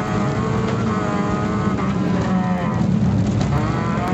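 Fiat Cinquecento rally car engine heard from inside the cabin, revving hard through bends. Its pitch dips briefly about two seconds in and again near the end as the driver lifts off, then climbs back up under acceleration.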